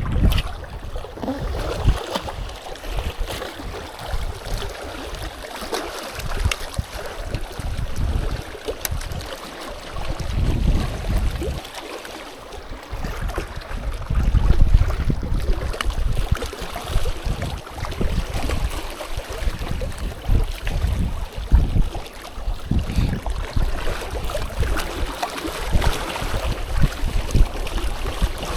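Strong wind buffeting the microphone in irregular gusts, a steady rushing noise with uneven low rumbling surges.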